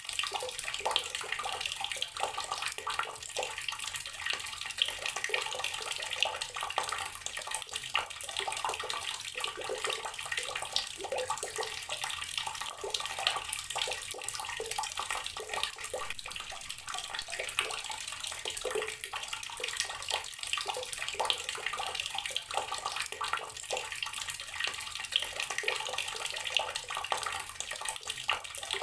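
Water running steadily from a tap and splashing into a basin or tub.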